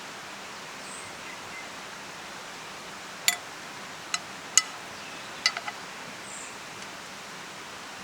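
Steady rush of a forest stream, with a handful of sharp clinks from about three to six seconds in, and two faint high chirps.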